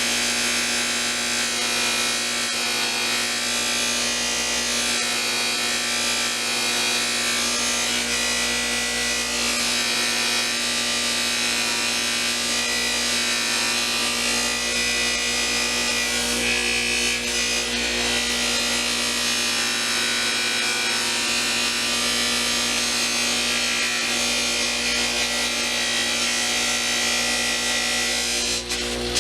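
Electric buffing wheel running steadily with a constant motor hum, the pry bar held against it with a rough, continuous rubbing as it is polished.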